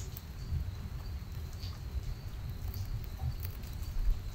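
Light rain pattering, with scattered drips ticking, over an uneven low rumble. A steady high cricket trill runs in the background.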